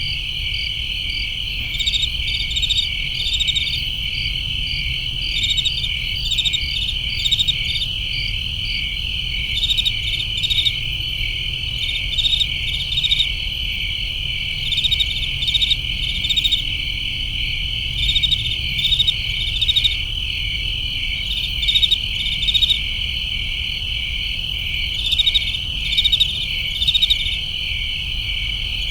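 Summer crickets chirping: a steady high trill with louder groups of quick chirps rising above it every second or two, over a low steady rumble.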